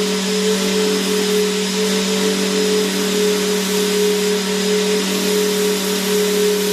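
Vacuum cleaner motor running steadily: a constant rushing hiss of air with a steady low hum.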